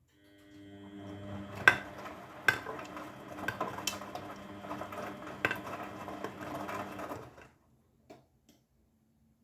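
Grundig washing machine's motor turning the drum for about seven seconds, with a steady whine and several sharp clacks from the load knocking inside the drum. It stops abruptly, and one faint click follows.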